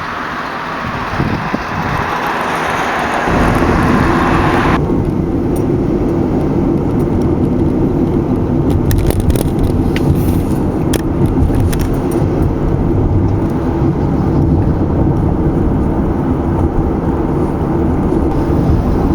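Road traffic noise from cars driving: an even hiss for the first few seconds switches abruptly to a steady low rumble of tyres and engine.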